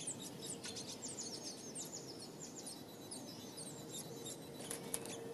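Small songbirds chirping, a rapid run of short high calls over a steady low background noise.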